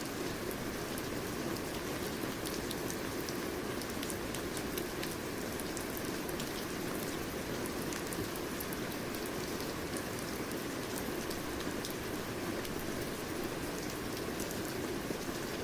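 Steady rain falling, a continuous even hiss with many small drop ticks pattering throughout.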